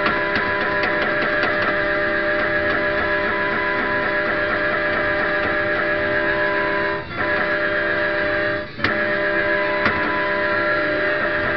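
Country-style guitar song played by a kiddie ride truck through its loudspeaker, with two brief dips in the music, one about seven seconds in and another just before nine seconds.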